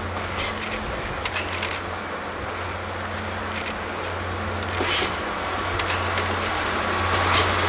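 Steady low drone of an approaching DD51 diesel locomotive's twin diesel engines, growing slowly louder, with short crackling clicks scattered through it.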